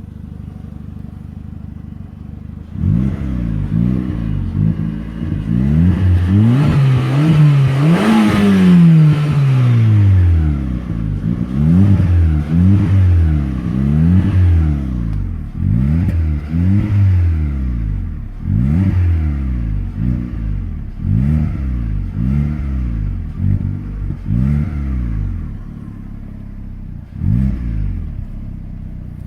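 Peugeot 207 1.6 16v four-cylinder petrol engine breathing through an Ulter aftermarket exhaust, idling and then revved over and over in short blips. The longest, highest rev comes about eight seconds in, and the engine drops back to idle near the end.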